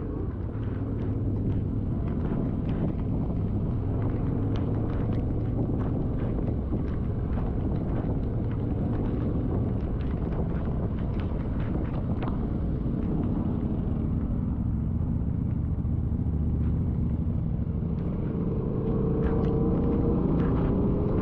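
Yamaha Ténéré 700 parallel-twin engine running while riding a dirt trail, with a steady rumble of engine and wind. Many short sharp ticks are scattered through it.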